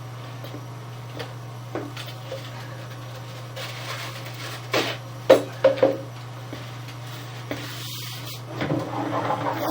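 A series of knocks and clunks, the loudest a quick cluster about five seconds in, over a steady low hum; near the end a short rustling scrape.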